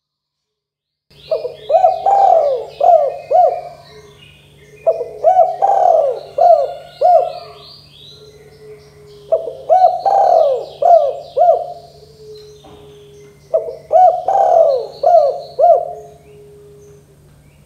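Spotted dove (tekukur) cooing: after about a second of silence, four phrases of several quick coos each, repeated about every four seconds. Smaller birds chirp faintly and higher above the coos.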